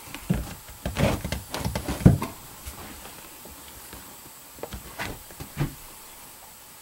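Irregular knocks and rustles, bunched in the first two seconds with the loudest about two seconds in, then a few softer ones around five seconds in.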